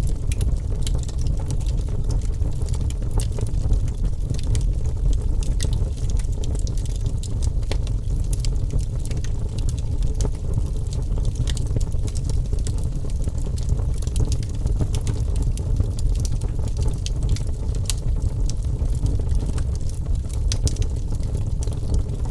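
Wood fire burning with sharp, irregular crackles and pops, several a second, over a steady low rumble of the flames.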